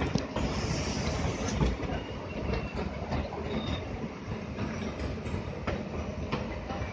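Passenger trains passing each other: a steady rumble of coaches with wheels clicking over rail joints and brief, faint wheel squeals.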